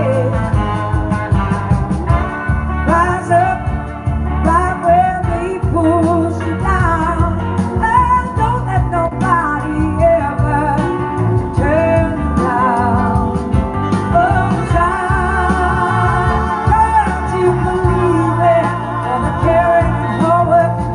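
Blues-rock band music: a lead vocal with vibrato sung over guitar and a steady bass line.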